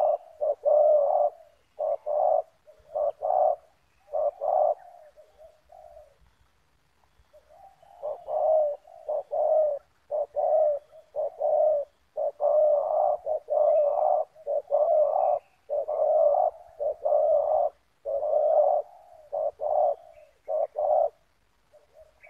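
Spotted dove cooing: repeated phrases of short, mellow coos, pausing for a couple of seconds about five seconds in, then calling again.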